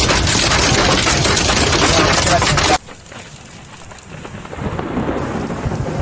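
Hail and rain pounding down in a heavy storm, a loud, dense hiss that cuts off abruptly about three seconds in. A quieter downpour follows and grows louder toward the end.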